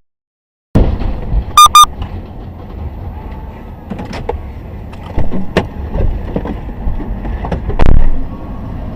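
Car driving, recorded on a dashcam: steady low road and engine rumble with scattered clicks. Two short, high-pitched beeps come close together about a second and a half in, and there is a loud low thump near the end.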